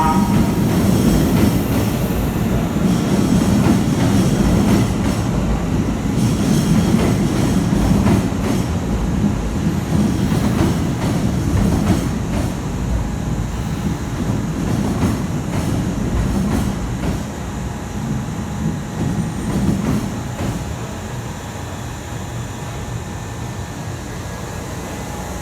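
Kintetsu electric train moving through the underground platform at Osaka-Namba, a steady rumble with wheel and rail clatter that grows gradually quieter over the last third.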